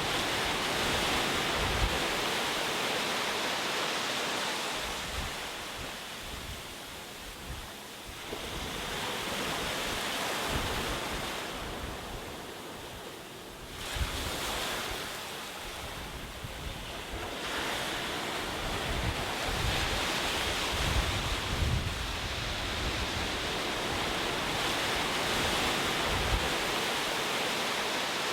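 Ocean waves breaking and washing on a shore, the surf swelling and ebbing in slow surges every few seconds, with some wind rumble on the microphone.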